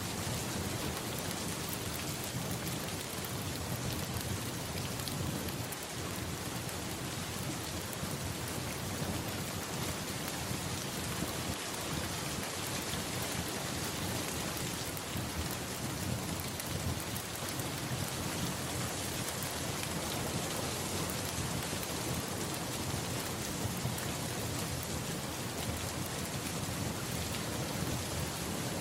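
Steady, even rainfall with a low rumble beneath it.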